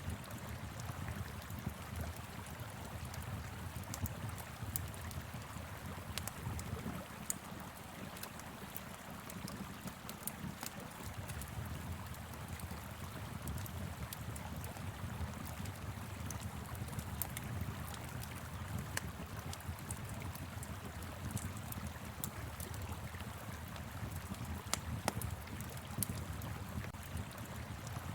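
Steady rush of a flowing river with a low rumble, and a wood fire crackling over it in scattered sharp pops and snaps.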